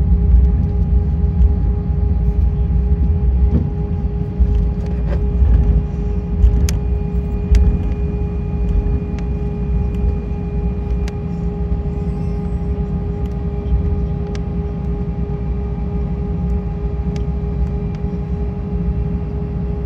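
Cabin noise inside an Airbus A320 on the ground: a steady engine hum with two even tones over a heavy low rumble, with scattered clicks and rattles.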